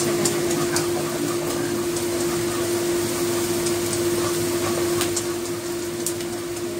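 Minced meat frying in oil in a wok, sizzling steadily while a wooden spatula stirs and scrapes it, with scattered small clicks of the spatula against the pan. A steady hum runs underneath.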